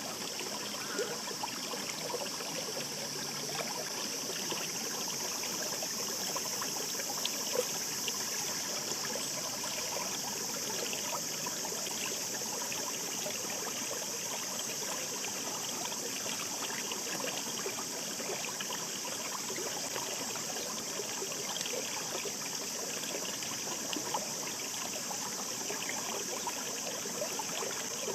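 Shallow mountain stream babbling steadily over stones, a continuous rush of water with small splashes and gurgles.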